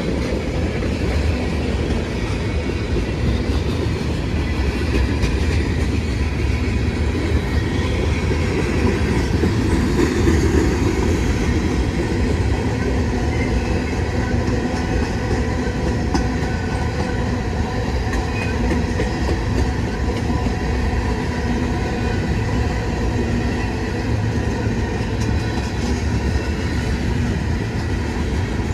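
Freight train rolling past, its cars' wheels running steadily on the rails.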